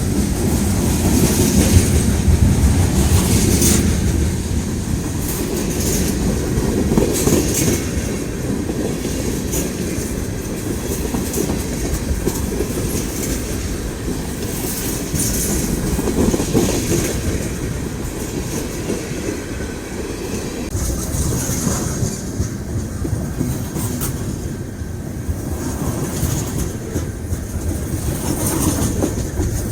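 Freight train cars rolling past over a grade crossing: a steady low rumble of steel wheels on rail, with repeated clacks as wheels strike the joints.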